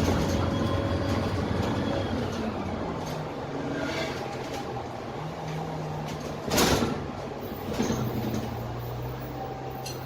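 Interior sound of a Dennis Trident double-decker bus with a Cummins ISMe six-cylinder diesel engine running, its drone shifting in pitch about five seconds in. A short, loud hiss of air comes about six and a half seconds in, with a smaller one shortly after.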